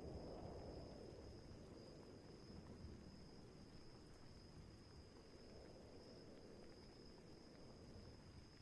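Faint low rumble of thunder dying away slowly after a peak, with a thin steady high-pitched tone running over it.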